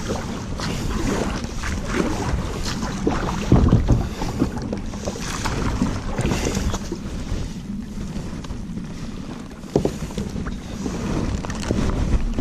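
Canoe under way: splashes from the paddle strokes with irregular knocks, a louder one about three and a half seconds in and another near ten seconds, over wind noise on the microphone.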